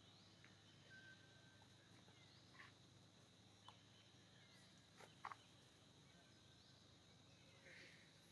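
Near silence: faint outdoor ambience with a steady high, insect-like tone and a few soft, scattered clicks.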